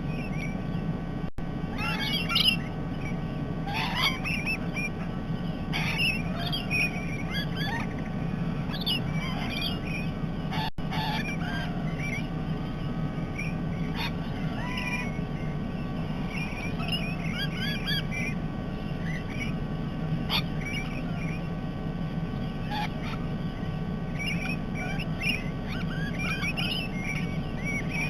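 A flock of parrots calling: many overlapping short squawks and chirps throughout, over a steady low hum.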